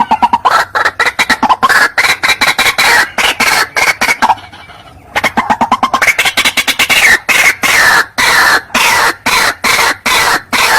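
White-breasted waterhen (ruak-ruak) calling: a fast run of harsh repeated notes, about five a second, that breaks off briefly about four seconds in and then carries on.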